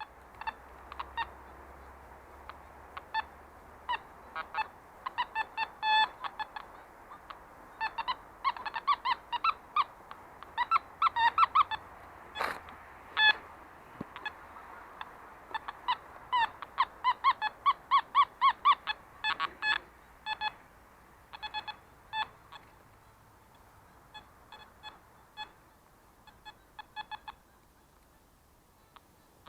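Metal detector giving short, nasal target beeps through its speaker, in irregular runs of several beeps a second as the search coil is swept back and forth over the ground. One sharp knock sounds about twelve seconds in.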